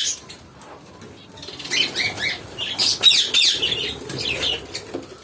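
Small caged ornamental birds chirping and flapping their wings, starting about two seconds in.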